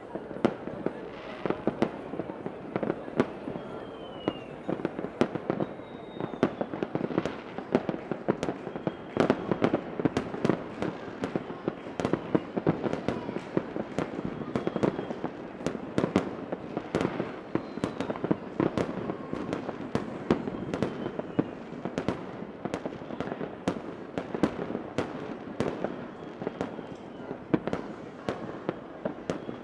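A fireworks display: a dense, unbroken barrage of bangs and crackling, with faint short whistles now and then.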